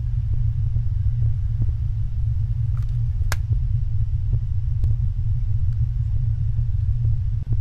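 Loud, steady low rumble of unexplained origin, heard outdoors as a deep droning, with a few faint clicks and one sharper click about three seconds in.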